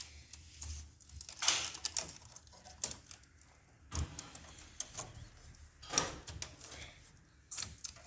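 Scattered plastic clicks and rattles of wire-harness connectors being pulled one by one from their sockets on a Toshiba copier's drive assembly.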